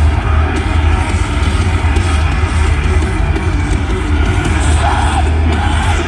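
Heavy metal band playing live at loud, steady volume, with distorted electric guitars over a heavy low end.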